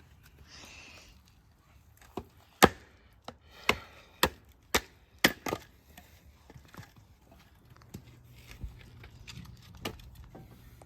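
A run of sharp knocks and clacks of hard objects, about eight in three seconds with the loudest near the start, followed by fainter scattered clicks.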